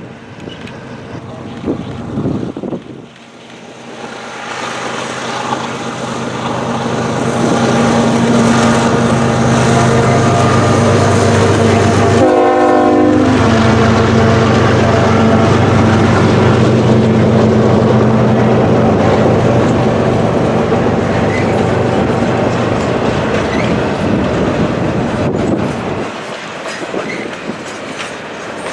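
Diesel freight locomotives passing close by, their engines loud and steady for several seconds. Then double-stack intermodal cars roll past with the wheels clattering over the rail joints.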